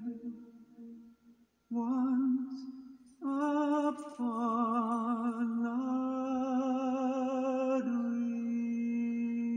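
A solo voice singing long wordless notes with a slow vibrato, coming in after a brief pause about two seconds in and ending on one long held note.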